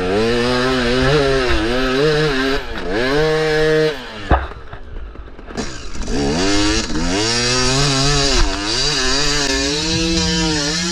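KTM 300 two-stroke dirt bike engine revving up and down repeatedly under throttle. About four seconds in the revs drop briefly with a single sharp knock, then the throttle blips up and down again.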